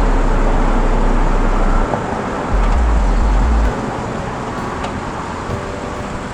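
Steady road traffic noise, with a heavy low rumble during the first few seconds.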